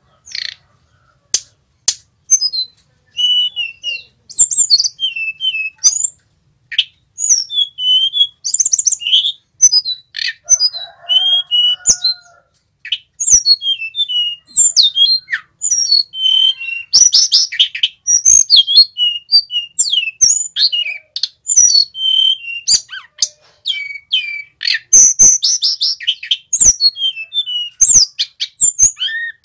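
Male sulingan gunung singing: quick phrases of high, thin whistles and twitters with short pauses between them.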